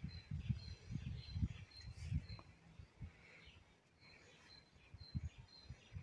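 Faint birdsong outdoors: a short high note repeated about twice a second, with softer chirps beneath it. Low bumps on the microphone come and go, and the sound dips lower for a couple of seconds past the middle.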